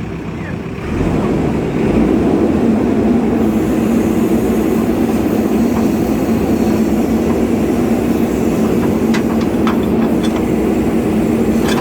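Heavy diesel engine working hard, getting louder about a second in and then running steadily at high revs, with a few faint clicks near the end.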